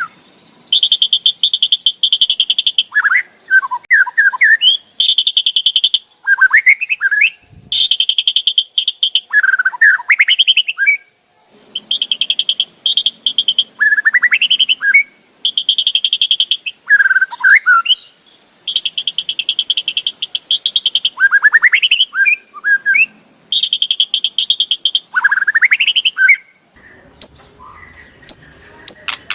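White-rumped shama giving its harsh 'kretekan' rattle: bouts of rapid stuttering chatter, a second or two each, alternating with short sweeping whistled notes and repeating about every three seconds. This is the agitated call used to rouse and provoke rival shamas.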